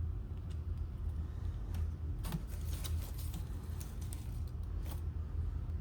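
Scattered light clicks and rustling from hands handling the hamper and its cloth liner, busiest a little over two seconds in and again near the end, over a steady low hum.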